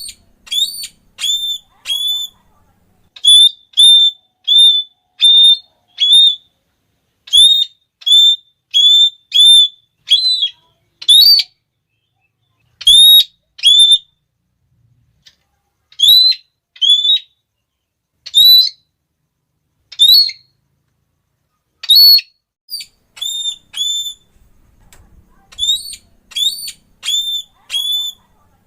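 Red-cheeked parrot (Geoffroyus geoffroyi) giving its shrill, repeated "klee" call: short high notes, each sliding up and then holding, in runs of two to six with brief pauses between runs.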